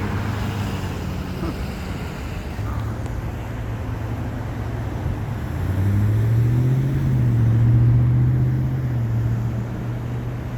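A vehicle's engine running steadily over road traffic noise; about six seconds in it grows louder and rises in pitch as the vehicle pulls away, then settles.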